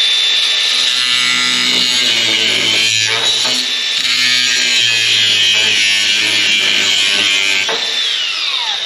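Electric angle grinder fitted with a wire wheel spinning up to full speed, scrubbing rusted sheet steel with a steady high whine, then spinning down near the end.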